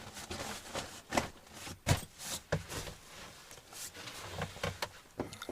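Irregular light knocks, clicks and rustling of someone moving about and handling things in a small room, with a sharper knock about two seconds in.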